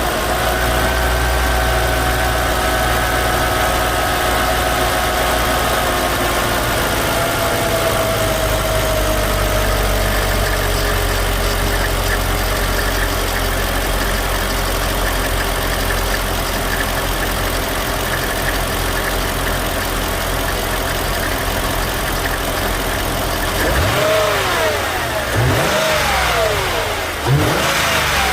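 2008 Mercedes-Benz SL55 AMG's supercharged 5.4-litre V8 running just after a cold start, its raised cold idle slowly settling lower over the first ten seconds or so, then idling steadily. Near the end it is revved briefly a few times.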